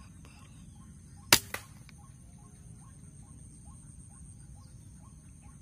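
A single sharp air-rifle shot about a second in, followed a quarter second later by a fainter second crack, over faint high insect buzzing and chirping.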